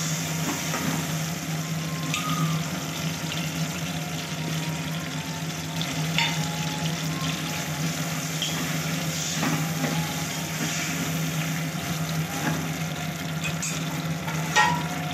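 Chopped tomatoes sizzling in oil in a stainless steel pot, stirred with a steel ladle that scrapes and clicks against the pot now and then, over a steady low hum. A few louder metal clinks come near the end.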